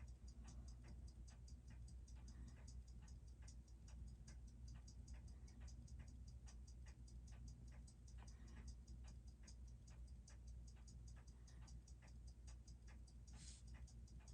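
Seiko 6R15 automatic watch movement ticking, a faint fast, even tick, with a steady low hum beneath it.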